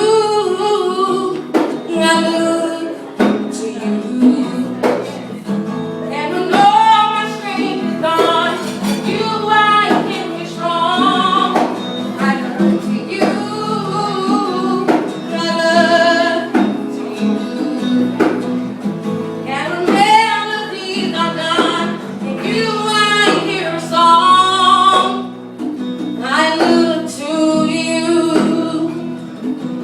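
Music: a singer's voice over instrumental accompaniment, in long held and sliding notes without clear words.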